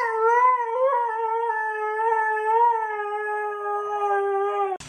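A dog howling: one long, steady howl held for nearly five seconds that cuts off suddenly near the end.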